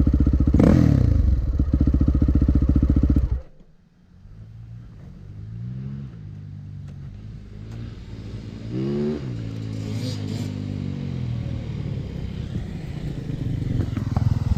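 Dirt bike engine running loudly with a quick rev about a second in, then cutting out suddenly a few seconds in. After that, other dirt bikes are heard more quietly revving and riding, getting louder toward the end.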